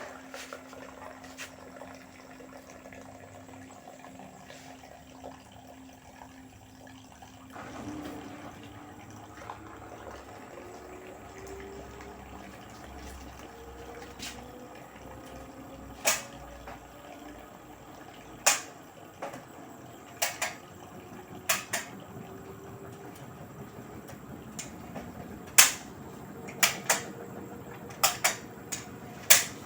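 LG direct-drive washing machine running: the drum motor hums steadily, then about seven seconds in its whine starts rising slowly in pitch as the drum speeds up. Water noise runs underneath, and several sharp clicks or knocks come in the second half.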